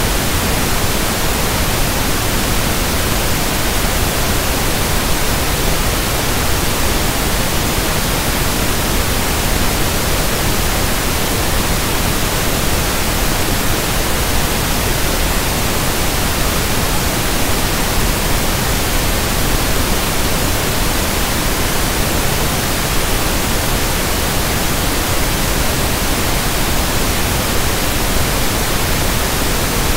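Steady electronically generated pink noise (1/f noise): an even, unchanging hiss spread across the whole range of pitch, with no events.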